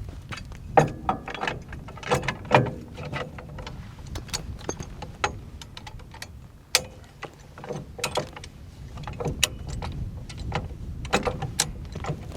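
A Hi-Lift jack being set up and worked: an irregular run of sharp metallic clicks and clanks, several of them loud.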